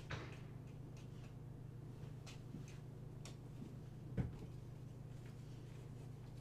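A few faint, scattered clicks and knocks, the loudest about four seconds in, over a steady low hum.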